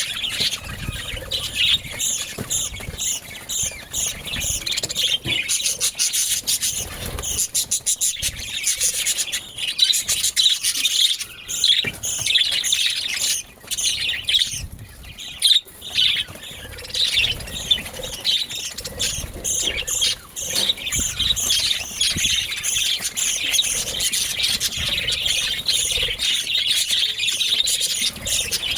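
Budgerigars chattering and chirping continuously in rapid, overlapping high twitters, with a few sharp knocks around the middle.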